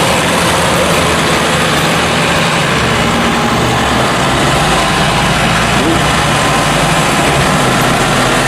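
Tractor diesel engine running steadily at low revs while the tractor is driven.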